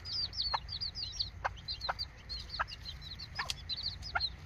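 Serama chickens: a busy run of high, quick cheeps, like chicks peeping, over short clucks every half second to second.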